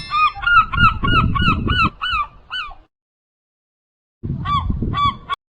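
Goose honking in a quick run of short calls, about four a second, for nearly three seconds. After a stretch of dead silence come three more honks, each run cutting off abruptly.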